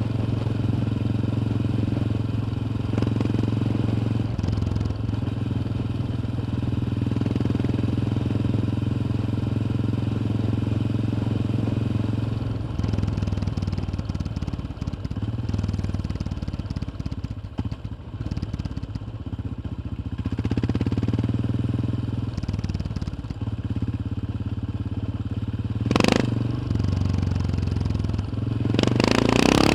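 Yamaha XT 600's single-cylinder four-stroke engine running steadily while riding, heard from on board. The engine note eases off around the middle, and a sharp knock comes a few seconds before the end, just before the revs rise again.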